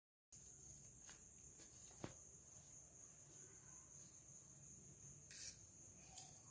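Faint, steady high trill of crickets chirping, with a sharp click about two seconds in and a brief rustle and click near the end.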